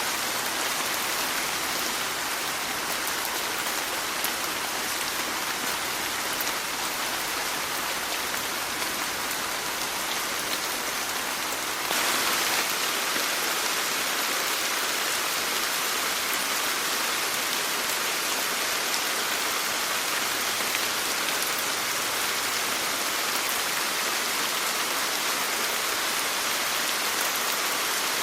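Steady, dense rain hiss with no distinct drops standing out; it gets slightly louder and brighter about twelve seconds in.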